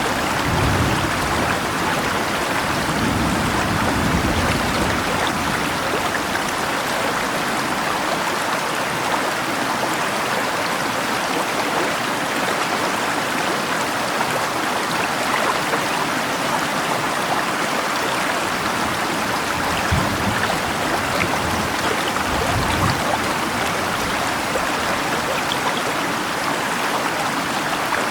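River water rushing and rain falling in a steady, even hiss, with a few low thunder rumbles in the first few seconds and again about twenty seconds in.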